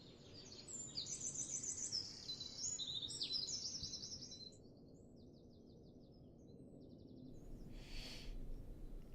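Songbirds singing: rapid high-pitched chirps and trills, loudest in the first four seconds and fainter after. A brief soft rustle near the end.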